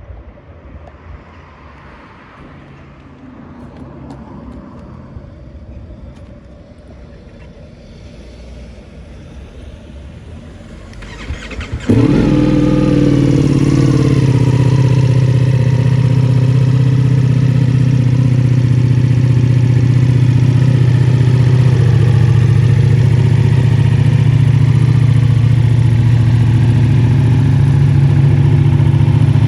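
2022 Ducati Multistrada V4S's 1158 cc V4 engine breathing through a full Akrapovic exhaust system. After some faint background sound, the engine starts about twelve seconds in, flares briefly as it catches, then settles into a steady idle.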